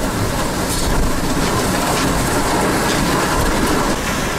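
Hurricane-force wind blowing in a loud, steady roar, with faint rattles and gusts in it.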